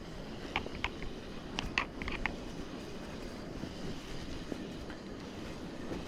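Wind on the microphone and water noise around a kayak at sea, a steady low rush, with about half a dozen short light clicks or knocks in the first two and a half seconds.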